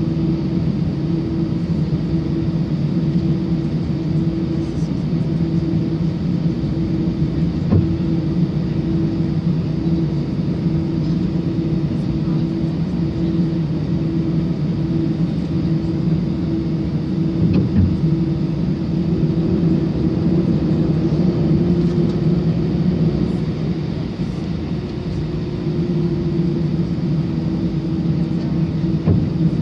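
Airbus A319 cabin noise while taxiing: a steady engine drone with a low, even hum, and a few brief knocks about 8, 18 and 29 seconds in.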